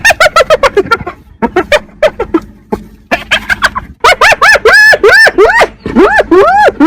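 Hyena calling in rapid runs of short, high notes, each rising and falling in pitch like cackling laughter, growing denser about four seconds in and ending with a longer rising call.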